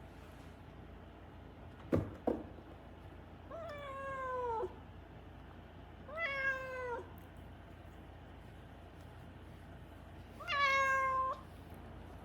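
Siamese-mix cat meowing three times, long drawn-out calls that rise quickly and then slide down, a few seconds apart, from a cat that is not settling to being kept indoors. Two sharp clicks come about two seconds in.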